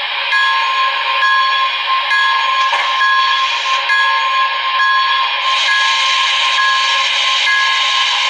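HO-scale MTH C&O 2-6-6-6 Allegheny model's DCS sound system playing a steady steam hiss, with a ringing tone that pulses a little faster than once a second.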